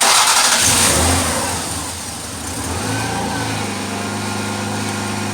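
1992 Lexus ES300's 3.0-litre V6 starting abruptly, revving briefly, then settling into a steady idle about three and a half seconds in. Its drive belt has just been tightened to cure a squeal.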